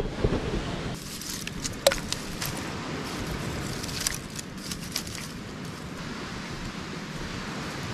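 Dry twigs and coconut husk being handled and laid on a pile, giving scattered snaps and crackles over the first five seconds. After that only a steady rush of wind and surf remains.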